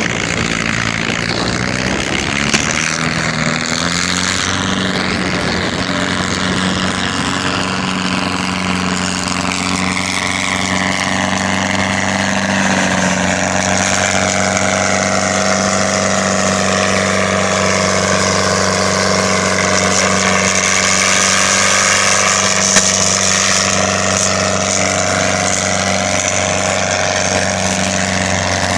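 Pulling tractor's engine running steadily and loud for the whole stretch, with a higher whine above it that slowly falls and then rises in pitch.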